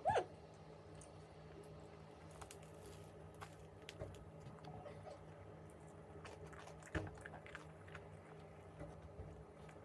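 Faint sounds of someone chewing and biting a toasted, partly burnt bagel with cream cheese, with a few light clicks and one sharper knock about seven seconds in.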